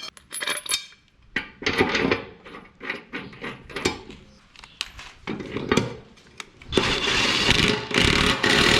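Clinks and knocks of metal parts being handled while a new, thicker mower blade is fitted to a Toro Titan Max zero-turn deck, then a power tool runs steadily for about two seconds near the end.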